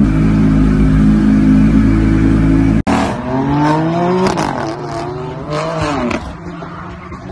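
A loud steady low drone that cuts off abruptly about three seconds in. Then a BMW M4's twin-turbo straight-six revs hard: its pitch climbs, dips, climbs again and falls away as it fades.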